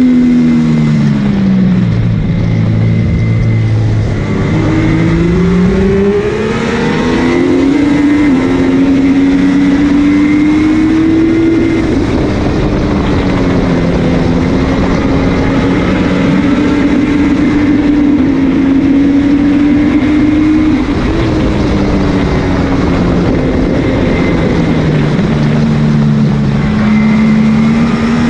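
MV Agusta F3's inline three-cylinder engine at racing speed, heard on board. The revs drop sharply about a second in, climb again in steps, hold high for a long stretch, then fall once more and rise near the end, with a steady rush of noise underneath.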